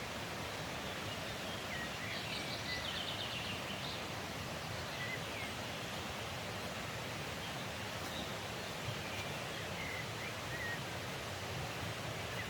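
Mountain stream running in a steady rush, with small birds chirping now and then; a short rapid trill about two seconds in.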